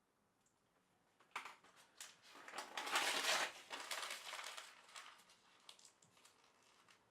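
Rustling, crinkling handling noise with many small crackles. It starts about a second in, is loudest around the middle, then dies away.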